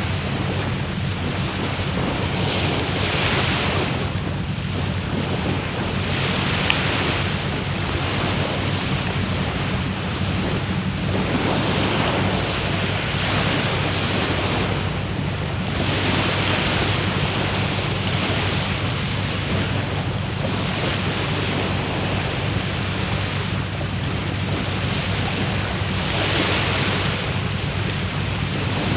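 Wood fire burning in a Coleman Fire Disk fire pit: a steady rushing hiss that swells and eases every few seconds, with faint scattered crackles. A steady high-pitched whine runs under it.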